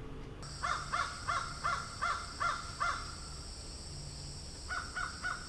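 A bird calling in a quick series of short, harsh caw-like notes, about three a second, for a couple of seconds. After a pause, a second short run comes near the end. Both runs sit over a steady high hiss of outdoor ambience.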